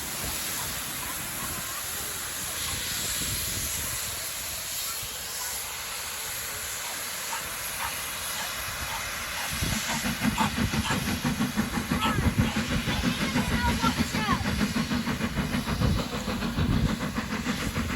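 Steady hiss of steam from a steam locomotive. About ten seconds in, a loud, unsteady low rumble joins it.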